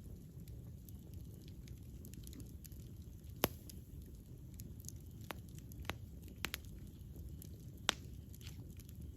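Wood fire burning with a low steady rumble and scattered sharp crackles and pops, the two loudest about three and a half seconds in and near the end.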